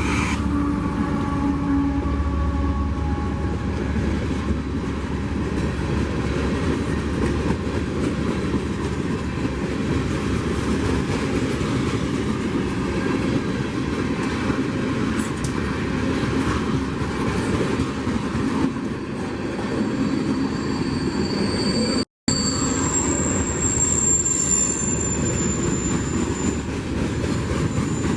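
Freight train rolling past, a steady rumble of wheels and cars on the rails, with a high thin wheel squeal for a few seconds near the end.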